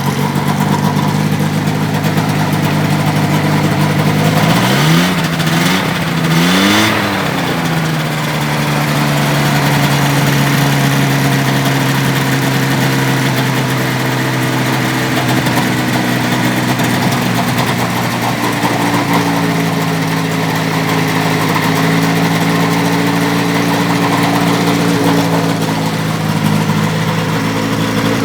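XWIND Halsyon's engine idling just after starting, revved up and back down twice about five and seven seconds in, then settling into a steady idle.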